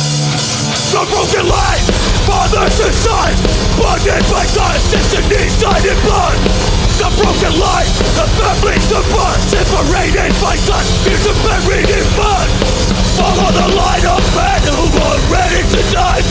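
Hardcore punk band playing live and loud with distorted guitars and drums. The full band comes in at the start, and the kick-drum low end enters about a second and a half in.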